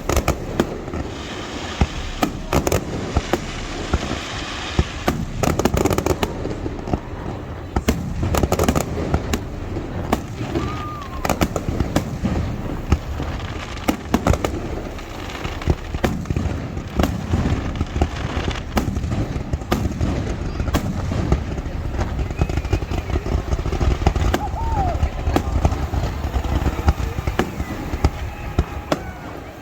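Aerial fireworks display going off continuously: a rapid, irregular run of sharp bursts and booms over a steady low rumble, many shells overlapping.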